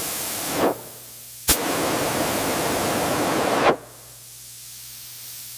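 Pressurised spray hissing in bursts. One burst ends about half a second in; after a click, a louder hiss runs for about two seconds and cuts off suddenly. A fainter hiss over a low hum follows.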